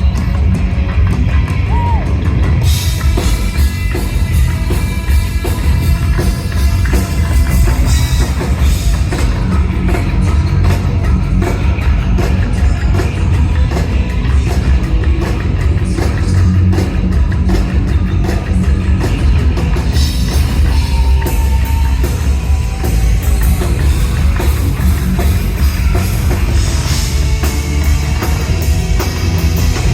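Live hard rock band playing loudly: drum kit, electric guitars and bass, with some singing.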